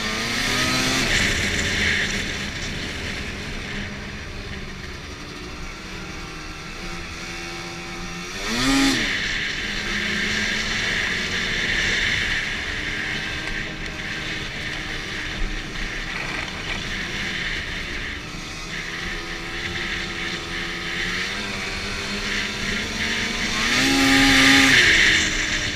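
2011 Arctic Cat F8 Sno Pro snowmobile's two-stroke twin engine running under way, its pitch rising and falling with the throttle. It revs up hard about a third of the way in and again near the end.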